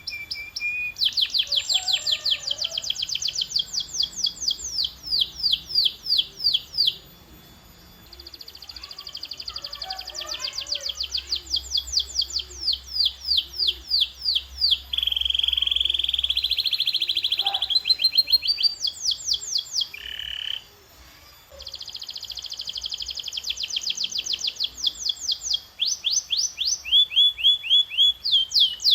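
Canary singing a long rolling song: fast trills of rapidly repeated notes, switching from one trill to the next, with two brief pauses.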